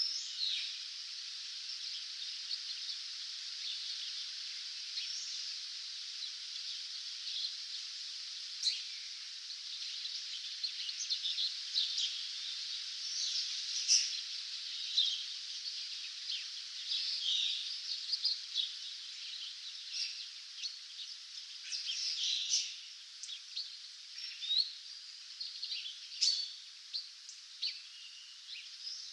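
Dawn chorus of many songbirds: a dense wash of distant song with frequent nearer chirps and short trills.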